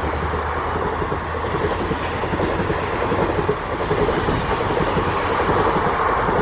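Indian Railways ICF passenger coaches rolling past at speed: a loud, steady rush of wheels on rails with rattling clickety-clack from the bogies.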